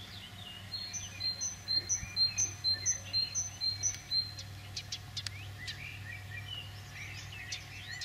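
Songbirds singing: one bird repeats a short, high two-note phrase about eight times in quick succession, with other birds chirping around it.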